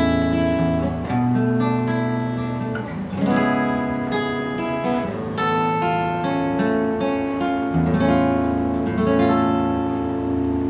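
Acoustic guitar playing a song's instrumental introduction, strumming chords that ring out, with a new chord every second or two.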